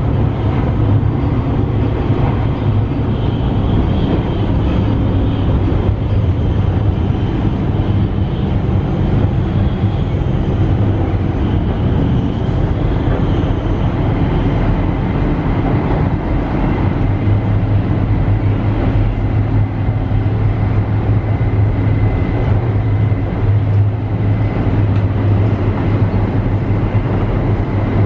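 Shinkansen bullet train running at speed, heard from inside the car: a steady low rumble with faint high tones above it.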